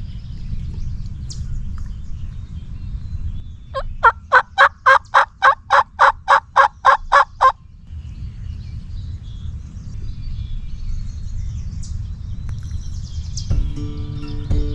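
A wild turkey's run of about thirteen loud, evenly spaced yelps, a little under four a second, lasting about three and a half seconds, over steady low wind noise. Music comes in near the end.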